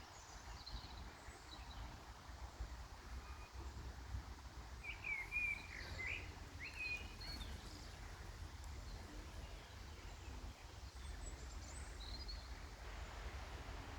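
Small birds chirping in short, quick calls that slide in pitch, bunched about five to seven seconds in with a few fainter ones near the start and near the end, over a low steady outdoor rumble.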